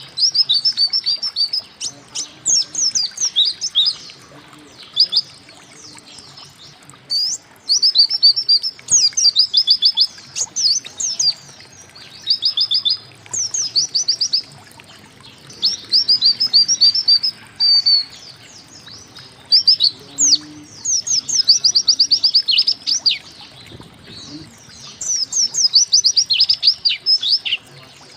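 White-eye (pleci) singing: repeated phrases of quick, high chirps and twitters, each run lasting a second or two with short pauses between.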